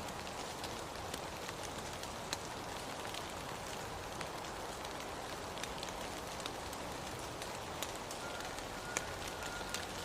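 Steady rain with scattered sharp drop ticks landing on a surface. A faint, thin, high tone is held for about two seconds near the end.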